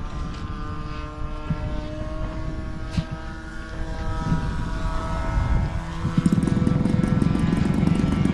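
Radio-controlled Ultra Stick model airplane in flight, its propeller drone slowly shifting in pitch as it flies around. About six seconds in, a louder, steadier, closer engine sound starts and holds.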